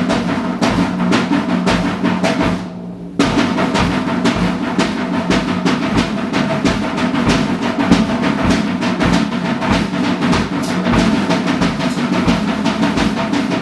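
Drum kit played loudly, with fast snare and bass drum hits and ringing drums. It breaks off briefly about three seconds in, then plays on without a gap.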